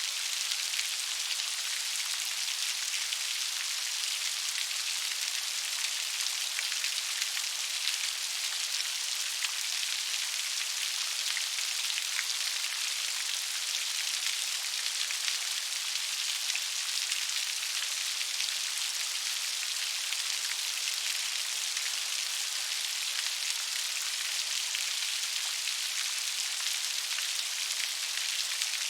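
Steady gentle rain falling, an even hiss with many small drop ticks and no let-up.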